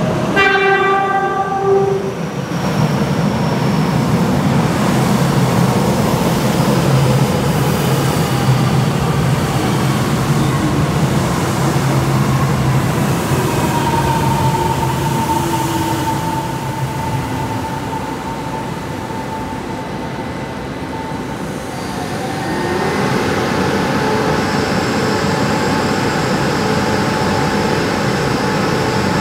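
Electric train in an underground station: a single horn blast of about a second and a half near the start, then the rumble of a local train running in along the platform, with a whine that falls slowly as it brakes. From about two-thirds of the way through, a steady electric whine and hum from a train standing at the platform.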